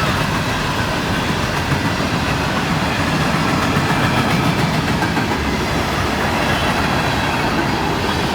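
Freight train of loaded and empty rock hopper cars rolling past at speed, a steady, continuous rumble and clatter of steel wheels on rail.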